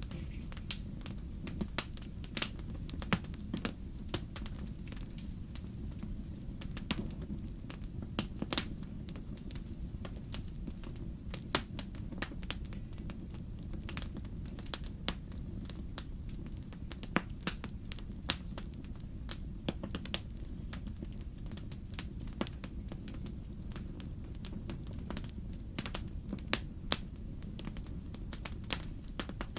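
Wood fire in a fireplace crackling: a steady low rumble of flame with irregular sharp snaps and pops of burning logs, a few louder ones scattered through.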